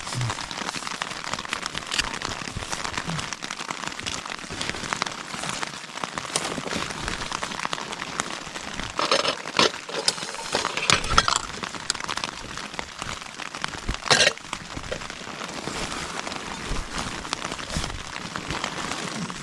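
Rain falling steadily on the nylon fabric of a small tent, heard from inside. About halfway through, and again a few seconds later, louder rustling and clinking as camping gear and cookware are handled.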